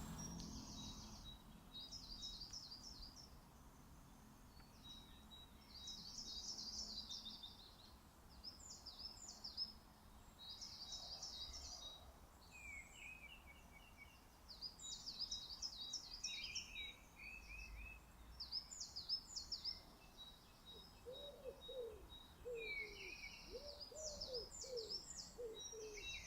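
Several songbirds singing, with short high phrases repeating one after another and some lower chirping calls between them. A faint steady thin tone runs underneath. About three quarters of the way through, a lower-pitched bird starts calling over and over in short notes.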